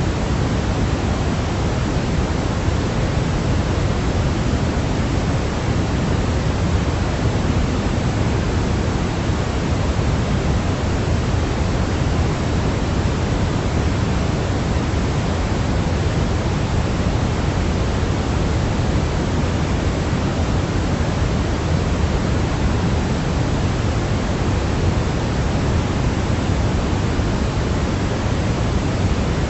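Steady baby-sleep white noise: a constant, even hiss with more weight in the low end, unchanging throughout.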